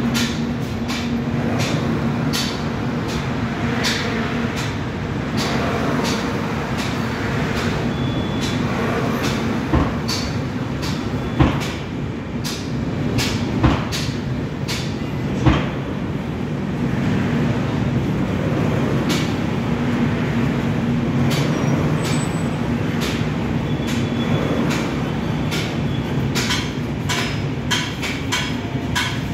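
Passenger train coaches rolling past below, wheels clicking and clanking over the rails with a steady rumble and low hum. There are a few louder clanks between about ten and sixteen seconds in.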